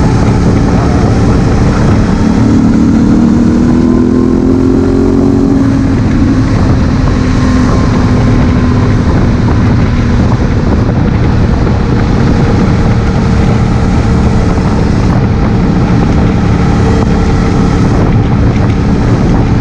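Honda Africa Twin CRF1000L's parallel-twin engine running under way, under heavy wind rush on a helmet-mounted camera microphone. The engine note climbs in pitch a couple of seconds in as the bike accelerates, then holds steady at cruise.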